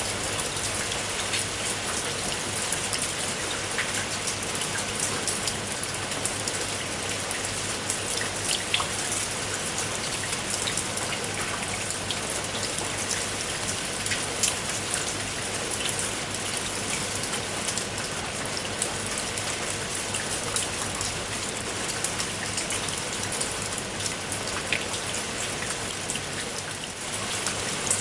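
Steady rain, with many separate drops ticking sharply over a constant hiss.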